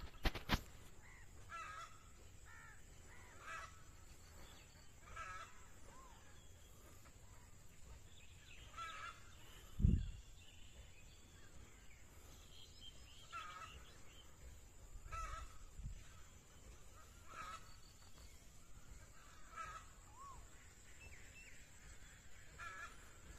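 Birds calling outdoors, short calls repeating every second or two, with a few fainter rising chirps. A single low thump about ten seconds in.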